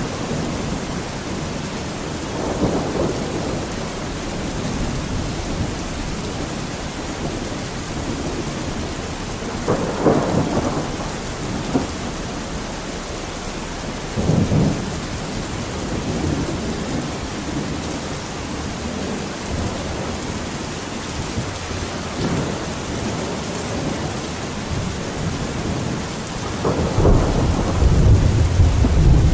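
Steady heavy rain falling, with rolling thunder rumbling in several times. The loudest, deepest rumble builds near the end.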